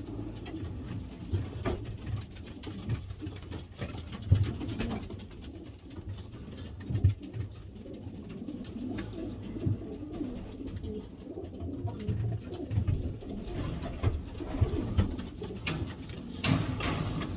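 Racing pigeons cooing continuously in a small loft, with scattered clicks and knocks.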